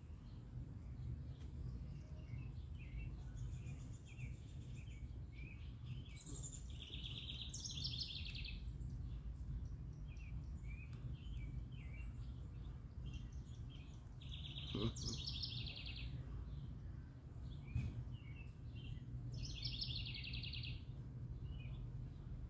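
Outdoor birds chirping, with three rapid, buzzy trills repeated several seconds apart, over a steady low background rumble.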